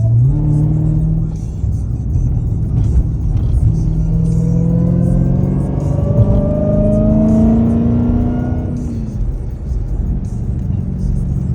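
Dodge Hellcat's supercharged 6.2-litre HEMI V8 accelerating hard in sport mode. The engine note climbs steadily in pitch for several seconds, then falls away as the driver lifts off.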